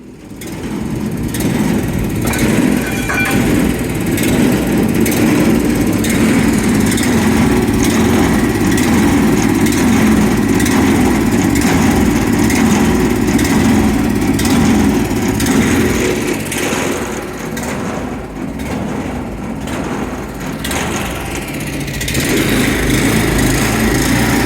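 A small engine running steadily with a rapid pulse. It eases off for a few seconds past the middle, then picks up again.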